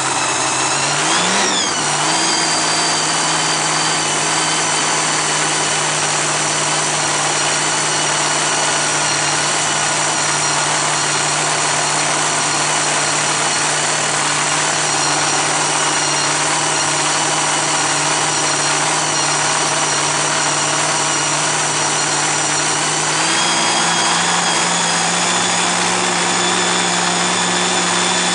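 Top Comp drag racing car's engine running at a steady fast idle, its speed stepping up about a second in and again slightly near the end.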